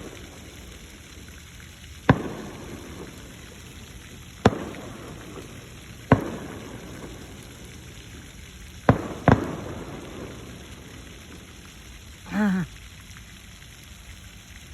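Fireworks going off in the distance: five sharp bangs that each echo and die away, about two seconds apart, with two close together about nine seconds in. The steady rush of a fountain's falling water runs under them.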